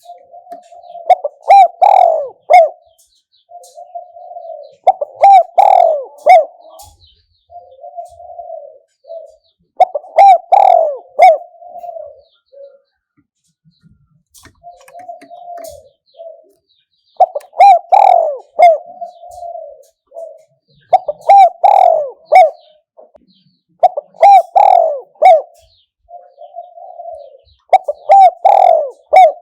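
Spotted dove cooing: a string of repeated coo phrases, each a couple of seconds long, separated by short pauses. The louder emphatic notes fall within each phrase.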